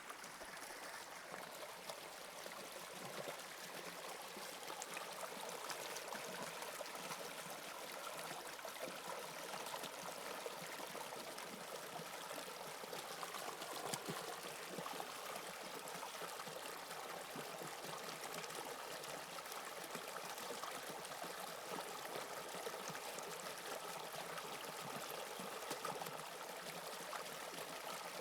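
Toronto subway Line 2 train running, a steady rushing noise that builds over the first few seconds and then holds.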